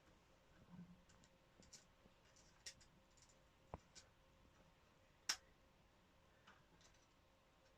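Faint, scattered small clicks and ticks from fitting the collets on a compressed valve spring of a Volvo D17C engine, with one sharper click a little past halfway.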